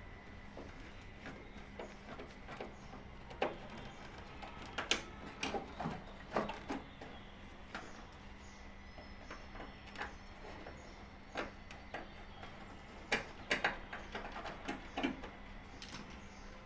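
Irregular clicks and knocks of parts and tools being handled, over a faint steady hum, with the clicks clustered in two busier spells.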